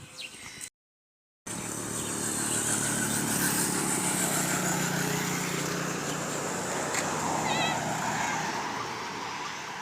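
A motorbike engine running steadily, coming in abruptly after a moment of dead silence about a second in, swelling a little and then easing toward the end. Birds chirp before the gap, and a bird chirps briefly near the end.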